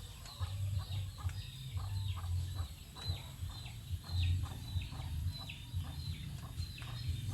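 Chicks peeping over and over, short falling peeps a few times a second, with a hen's low clucks among them.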